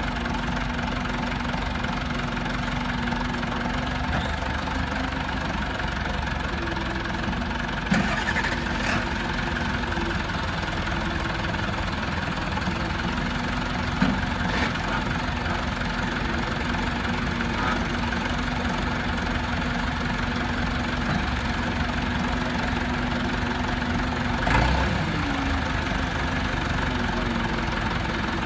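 Tow truck engine idling steadily, with a few short knocks or clunks, about three of them spread through the idle.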